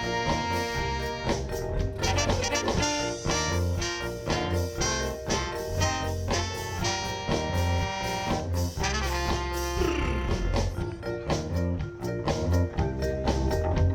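Live band instrumental break in a ska-style song: the horn section of saxophone, trombone and trumpet plays over drums, bass, guitar and keyboard with a steady beat.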